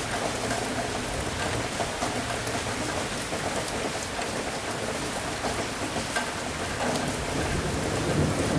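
Steady rain falling, with many individual drops ticking crisply. A low rumble of thunder grows toward the end.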